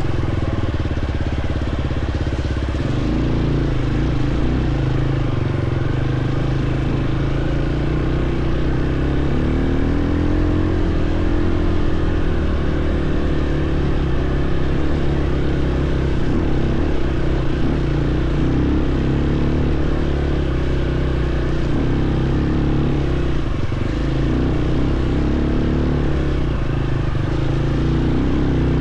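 Dirt bike engine running under way on a trail, its pitch rising and falling as the throttle opens and closes.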